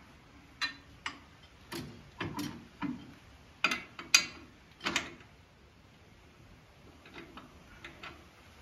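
Steel top-link pin being worked into the tractor's three-point hitch bracket: a string of sharp metal-on-metal clicks and knocks, the loudest about four seconds in, with a few fainter taps near the end.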